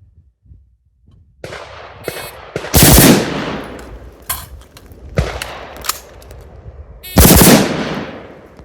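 A string of gunshots from a firearm in a rapid shooting drill: sharp blasts spread across several seconds, the loudest about three, five and seven seconds in, each trailing off in a short echo.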